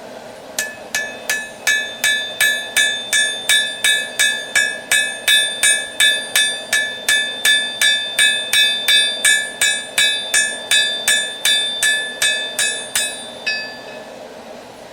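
Hand hammer forging a hot railroad spike on an anvil: a steady run of blows, about three a second, each ringing metallically, stopping about a second and a half before the end.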